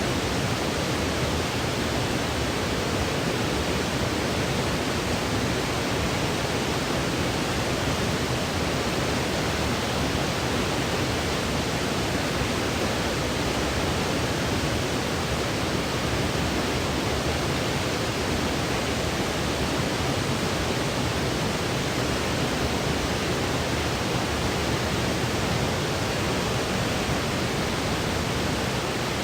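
Steady white noise for baby sleep: an even, unchanging hiss with no rises, breaks or other events.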